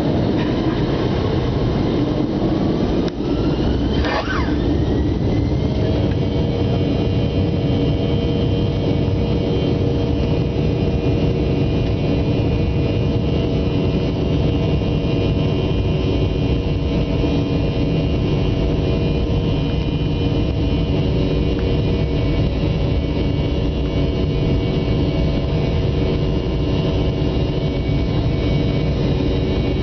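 Aircraft engines running at takeoff power, loud and steady, with an engine tone rising in pitch over the first several seconds before it levels off.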